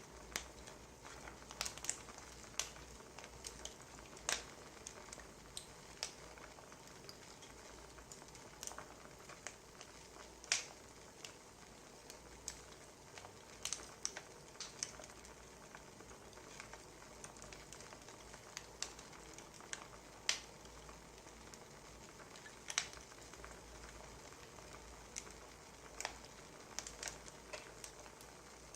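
Wood fire crackling: irregular sharp pops and snaps over a low steady hiss.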